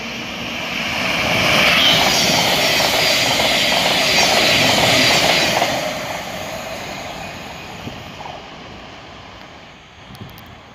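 Electric passenger train passing at speed: wheel and rail noise swells, peaks for a few seconds, then fades away.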